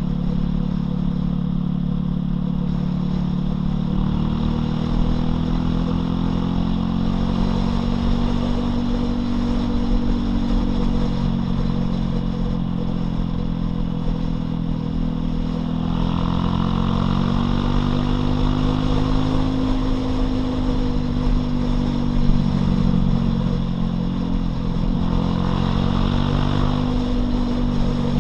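Loncin LX250-12C motorcycle engine running under way, its pitch slowly rising and falling with the throttle. A rush of wind noise swells twice, in the second half.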